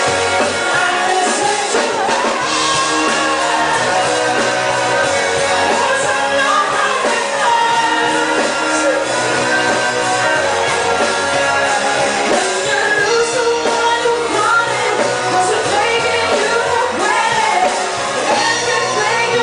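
Live rock band playing, with a voice singing over drums, bass and guitar.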